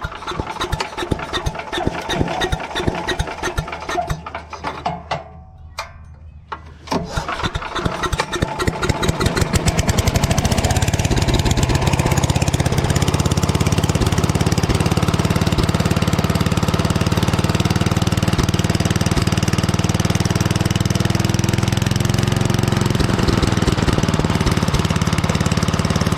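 Craftsman 8.5 hp wood chipper's small gas engine being started on choke, its first start after sitting ten years with a freshly cleaned carburetor. It turns over and sputters in fits for several seconds, catches about seven seconds in, and settles into steady running.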